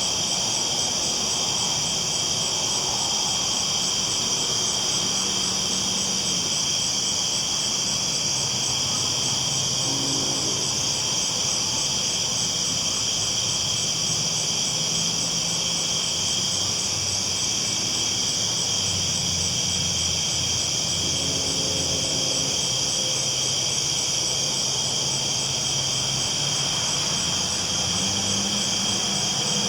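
Crickets chirring steadily in a continuous high chorus, over the low, even rumble and hum of a train rolling along the tracks.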